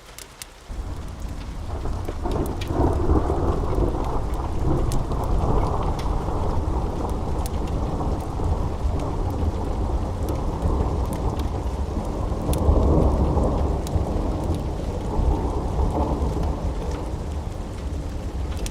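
A long rolling thunder rumble that breaks in about a second in, swells twice and slowly fades, over steady rain. Scattered sharp crackles run through it.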